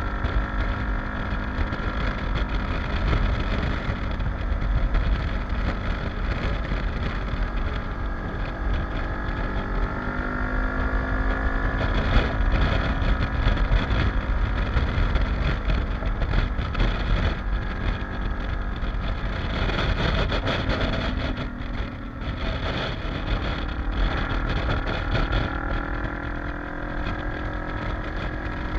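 Kawasaki KLE dual-sport motorcycle engine running under way, its pitch rising and falling as the throttle opens and closes, and easing off briefly about three quarters of the way through.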